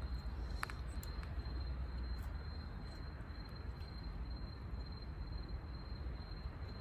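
Insects trilling on one steady high note, over a low rumble, with a couple of faint clicks.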